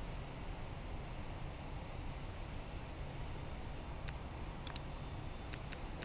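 Steady low rumble and hiss of airport outdoor background noise, with a few faint sharp clicks near the end.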